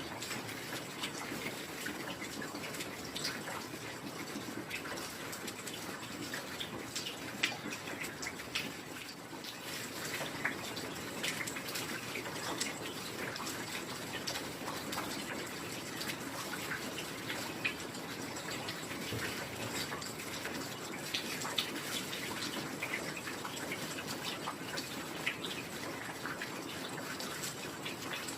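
Heavy rain falling steadily, a dense even hiss with many small irregular drips and patters on top.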